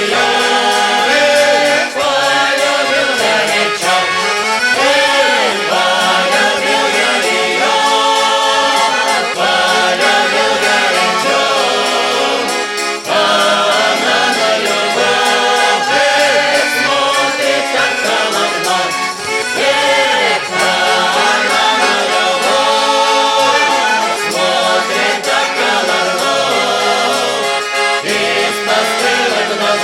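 Russian folk song sung by a choir with accordion accompaniment, used as background music.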